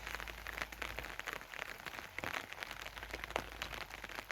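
Heavy rain falling steadily, a dense hiss full of irregular individual drop impacts.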